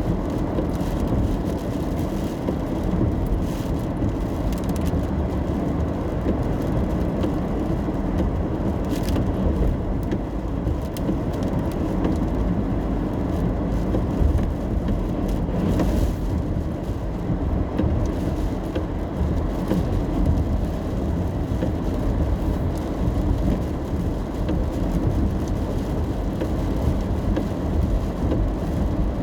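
Steady low road and engine noise of a car driving in the rain, heard from inside the cabin, with a couple of faint ticks.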